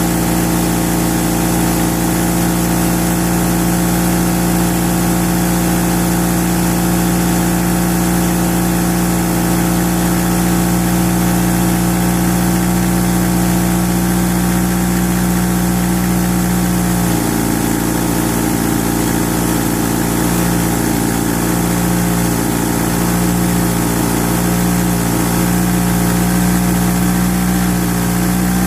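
1991 Eagle Talon TSi AWD's turbocharged 4G63 four-cylinder idling steadily, run for the ticking noise its owner is chasing. A little past halfway the idle drops slightly to a lower, slightly unsteadier pitch.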